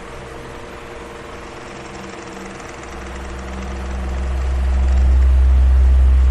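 Electric fan running with a steady hum and airy hiss; a deep low rumble swells up about halfway through and peaks near the end.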